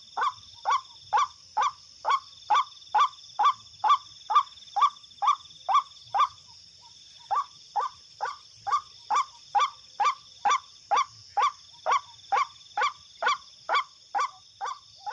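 White-breasted waterhen (ruak-ruak) calling a long series of evenly spaced, harsh 'kwak' notes, a little over two a second, with one short pause about halfway through. A steady high-pitched hum runs underneath.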